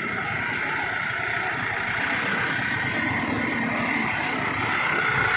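Passing truck traffic: a steady run of engine and tyre noise that slowly grows louder.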